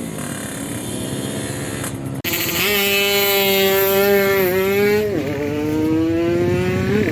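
Racing motorcycle engine revving hard. An abrupt cut a couple of seconds in jumps to a louder run whose pitch climbs slowly, drops sharply about five seconds in at a gear change, then climbs again.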